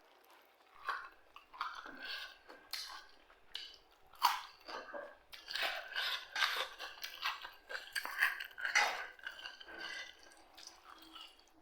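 A person chewing crunchy food in irregular, crackling bites, busiest in the middle.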